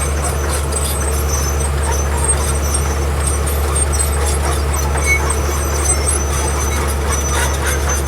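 Heavy diesel earthmoving machinery running steadily under load, with faint high-pitched squeaks coming and going over the low engine drone.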